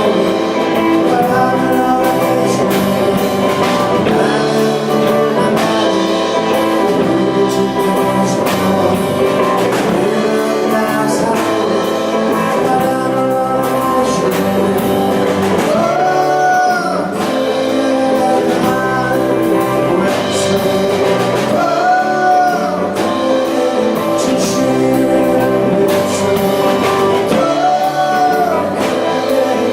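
A band playing live: singing over guitar and a steady drum beat, with an arching melodic phrase that comes round about every six seconds.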